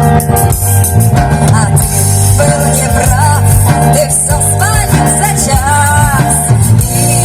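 A band playing a song: guitar, bass and a drum kit keep a steady beat, and a voice sings a melodic line from about two and a half seconds in.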